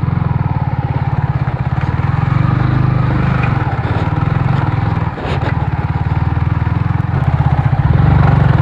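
Motorcycle engine running steadily as the bike is ridden, a fast low pulsing, with a brief drop in level about five seconds in.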